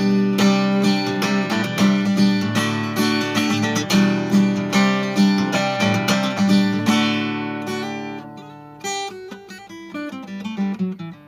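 Acoustic guitar playing the song's closing bars. Strummed chords run for about seven seconds and then fade, followed by a few sparser picked notes as the song ends.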